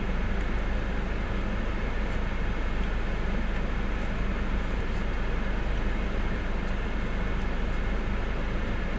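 Steady hum of a parked car idling, heard from inside the cabin.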